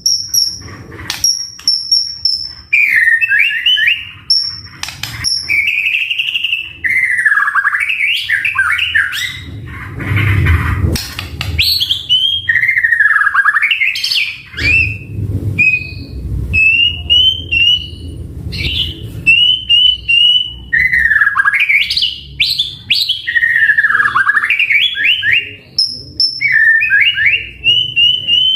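White-rumped shama (murai batu) singing a loud, varied song without a break: clear high whistles, swooping phrases that dip and rise, and quick runs of repeated chattering notes. A low rumble sits under it in places.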